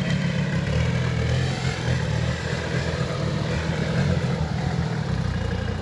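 Off-road truck engine running steadily at low revs, its low note wavering slightly.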